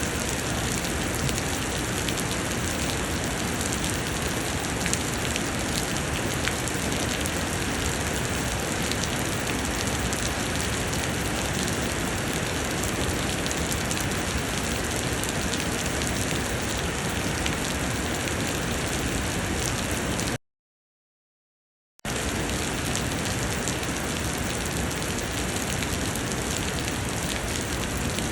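Heavy summer rain pouring down in a steady, dense patter. About twenty seconds in, the sound drops to dead silence for about a second and a half, then the rain resumes.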